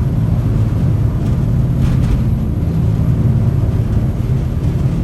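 Jet boat's turbo-diesel engines running steadily under way, a constant low drone with some water and wind hiss over it.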